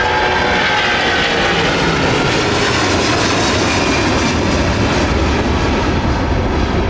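Twin-engine Airbus A330 jet airliner under takeoff power passing by. The engines make a loud, steady roar, and a whine in it falls in pitch over the first couple of seconds as the aircraft goes past.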